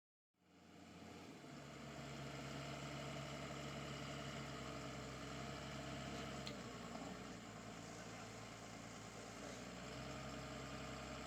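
Motor grader's engine running steadily, fading in just after the start; its pitch shifts about halfway through and again near the end.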